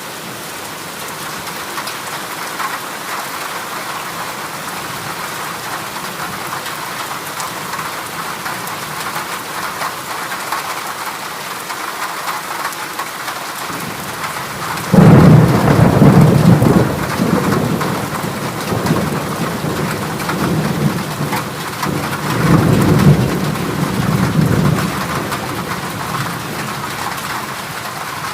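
Heavy rain drumming steadily on a corrugated metal roof. About halfway through, thunder breaks suddenly with a loud low rumble, and a second roll of thunder swells a few seconds later.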